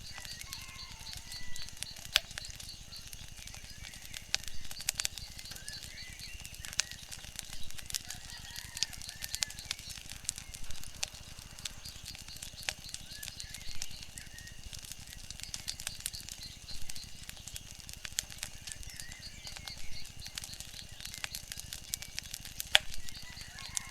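Wood fire crackling with frequent sharp snaps and pops over a steady hiss, with faint chirping bird calls and quick trills.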